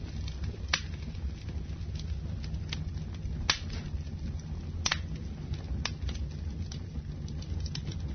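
Wood fire burning in a fireplace: sharp, irregular crackles and pops about once a second over a steady low rumble of the flames.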